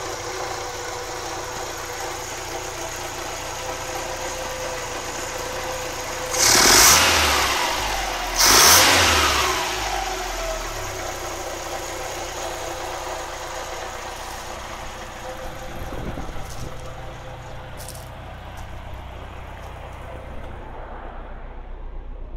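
Saab 96 V4 engine idling through its new Jetex exhaust, blipped twice in quick succession about a third of the way in, each rev falling back to a steady idle.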